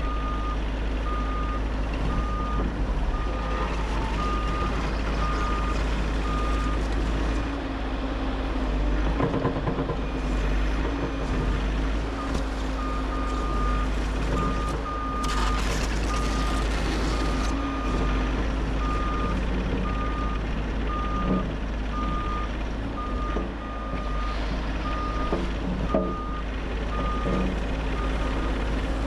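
Bobcat E50 compact excavator running under load while its travel alarm beeps steadily, about one and a half beeps a second, dropping out for a few seconds around a third of the way in. A short hiss rises over the engine a little past halfway.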